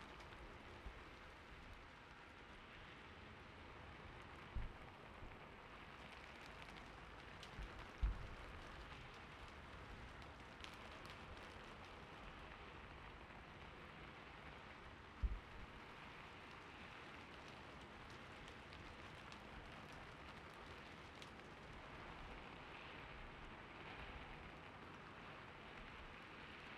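Gentle rain ambience: a soft, steady hiss of rainfall. A few soft low thuds come about 5, 8 and 15 seconds in.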